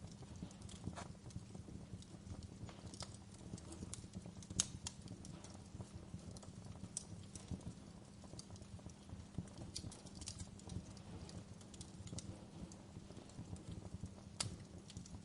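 Wood fire burning in a fireplace, crackling with irregular sharp pops and snaps over a steady low rumble of the flames; the loudest snap comes about four and a half seconds in, with another strong one near the end.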